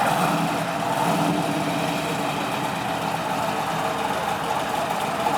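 Car engines idling steadily as cars sit nearly still in a slow line.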